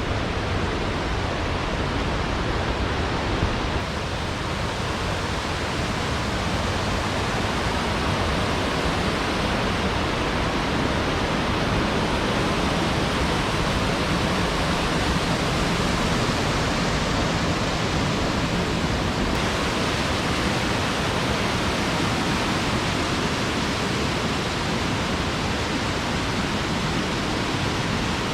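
Rushing water: a steady, loud, even rush with no breaks, shifting slightly in tone twice.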